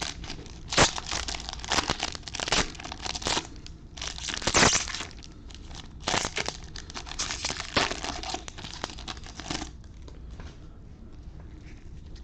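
Bowman baseball card pack wrapper being crinkled and torn open, a quick run of sharp crackles that stops about ten seconds in.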